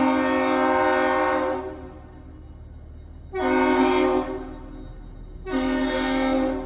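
Deep horn signal: the end of a long blast, then two short blasts of about a second each. This is the long-two-short master salute sounded as a ship departs Duluth.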